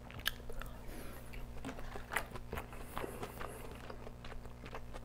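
A person chewing a mouthful of kimchi fried rice with cheese, with short irregular mouth clicks.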